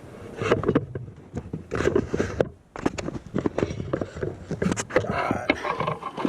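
Handling noise from a camera being moved into position: irregular knocks, clicks and rubbing, with a brief dropout a little over halfway through.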